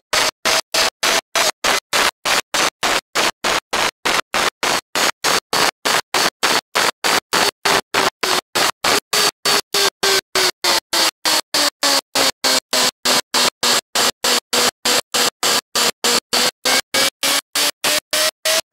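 Kawasaki ZZR1400 inline-four engine and wind rush heard from the bike on track, the engine note falling over the first dozen seconds as the bike slows into a corner, then rising again as it accelerates. The whole sound is chopped by regular dropouts about four times a second, a fault in the recording.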